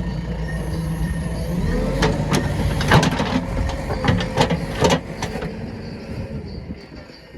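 Heavy diesel engine running steadily, with a series of sharp metallic knocks and clanks between about two and five seconds in. The engine sound fades somewhat near the end.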